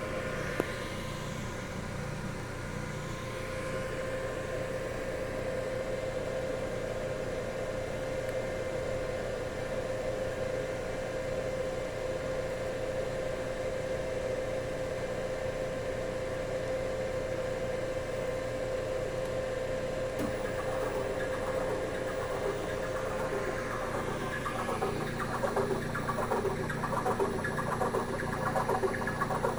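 Servo motor running on a WEG SCA05 servo drive under test after repair, with a steady electric whine. About three-quarters of the way through, a rougher, rapidly pulsing sound joins it and it gets slightly louder.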